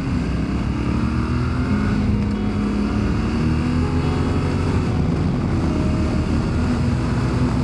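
Yamaha Ténéré 700's parallel-twin engine running steadily as the motorcycle is ridden, with wind and road noise.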